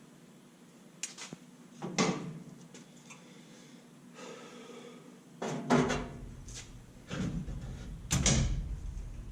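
Scattered sharp knocks and clanks, about seven separate hits, some with a short ring, as tools and sheet-metal parts are handled in a workshop. A low rumble comes in about halfway through.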